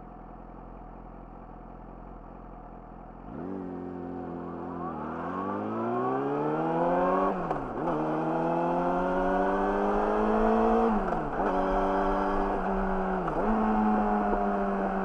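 Yamaha YZF-R6's inline-four engine through an Akrapovic slip-on exhaust, idling steadily and then pulling away. It revs up through the gears, with the pitch dropping sharply at three upshifts.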